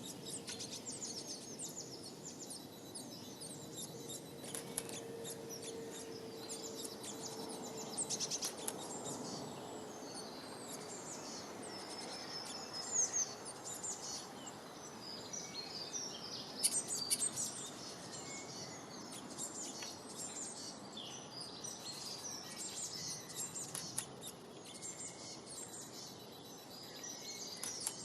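Small songbirds chirping and twittering almost without pause, high-pitched calls and trills, over a steady outdoor background hiss. A faint steady hum sounds underneath for several seconds in the first third.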